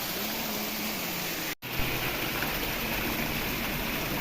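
Steady outdoor rushing noise, with a brief dropout to silence about one and a half seconds in where the recording cuts.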